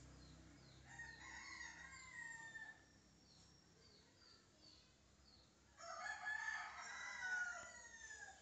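Two faint, long bird calls, each about two seconds, the second louder, with short high chirps of small birds recurring in the background.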